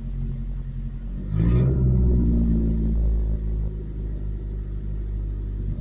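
Truck engine idling, revved up about a second in, then settling back to a steady idle. The truck stalls when shifted into gear, which the owner suspects is a fuel problem.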